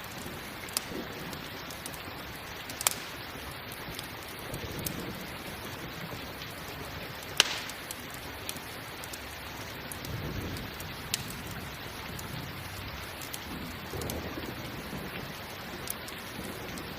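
Steady rain with sharp pops from a crackling campfire, the loudest about halfway through. Low rumbles of thunder swell and fade a few times.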